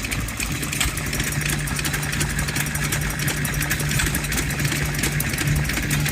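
Vintage engine running steadily, with a fast clatter of fine clicks and a low steady hum that sets in about half a second in.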